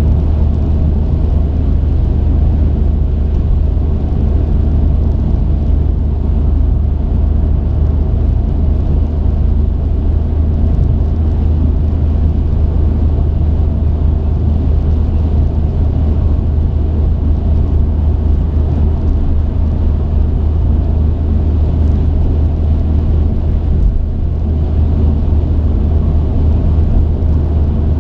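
Truck engine and road noise, a steady low drone as the truck drives along.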